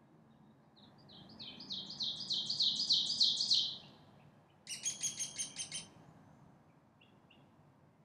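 A songbird sings a quick run of about ten slurred notes, stepping up in pitch and lasting about three seconds. About a second later comes a shorter burst of about eight rapid, buzzier notes. Both sit over a faint forest hush.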